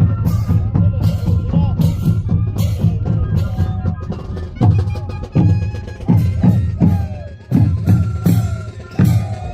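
Moseñada band music: cane moseño flutes over bass and snare drums beating a steady rhythm, the drum strokes loudest.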